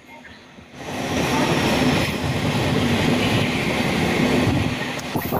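A train running on the rails: a loud rumbling clatter of wheels on track that starts about a second in and cuts off abruptly just before the end.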